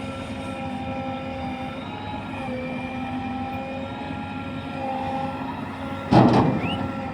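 Heavy diesel engine running steadily at a constant speed, with a loud, sudden thump about six seconds in.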